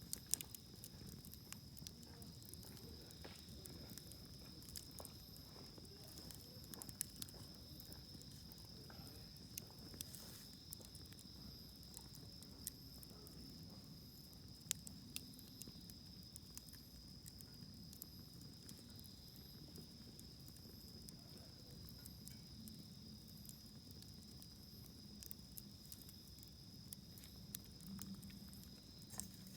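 Wood campfire crackling: faint, scattered sharp pops and ticks over a low hiss, with a steady high-pitched drone underneath.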